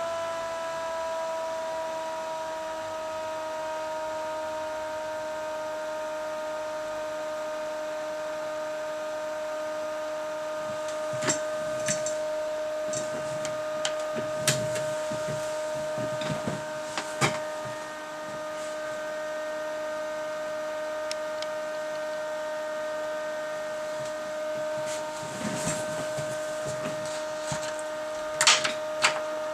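A steady electrical whine with overtones that slides slightly down in pitch over the first few seconds, then holds. Scattered clicks and knocks come through it in the middle and again near the end.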